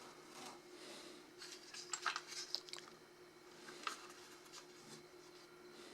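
Light handling noises as a toy train engine is taken out and turned over: rustling and small clicks and clinks, bunched about a second and a half to three seconds in, with one more click near four seconds. A faint steady hum runs underneath.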